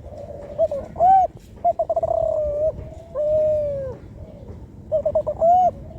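A four-month-old juvenile spotted dove (Kelantan tekukur) cooing. It gives a few quick stuttering notes, a rapid rolling run, and then a drawn-out coo that falls away at the end, and it starts the phrase again near the end. This is a young bird still learning to shape its song.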